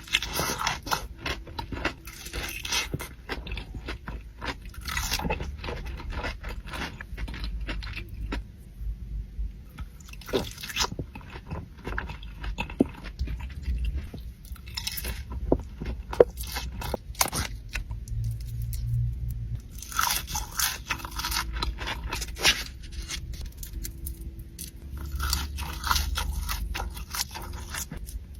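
Close-miked biting into and chewing crispy fried chicken, with loud crunches coming in repeated bouts and quieter chewing between them.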